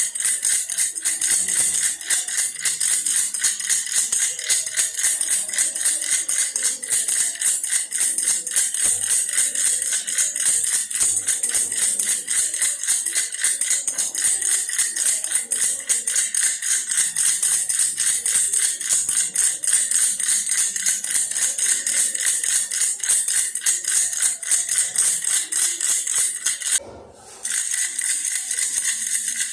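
A baby's toy bear rattle shaken fast and without letup, a dense jingling rattle with one short pause near the end.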